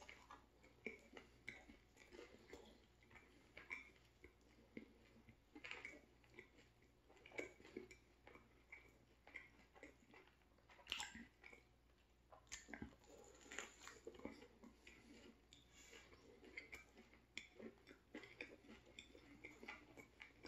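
Close-up chewing of a turkey sandwich on a soft roll: a bite, then soft, irregular mouth clicks and wet smacks as it is chewed.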